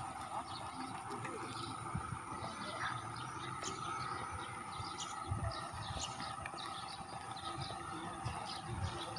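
Outdoor ambience of small birds chirping over and over, over a steady hum, with a few low thumps now and then.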